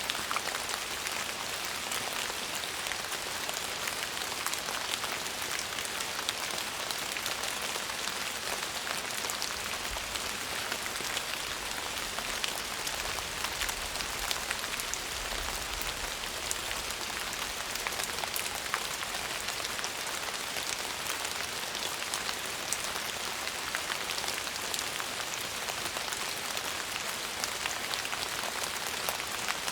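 Steady rain falling on a surface, an even hiss with many separate drop ticks through it, and a faint low rumble partway through.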